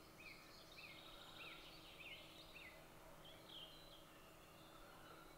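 Faint outdoor birdsong: a bird repeats a short rising chirp about every half second for the first half, then a few higher calls come a little after the middle, over a faint steady hum.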